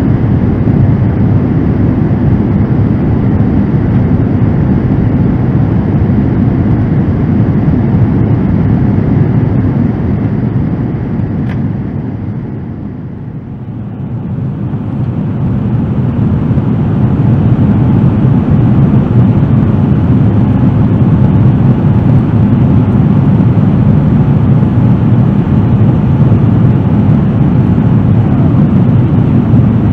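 Steady low rumble of noise inside a Boeing 787-9 airliner cabin. It fades for a few seconds about twelve seconds in, then builds back to the same level.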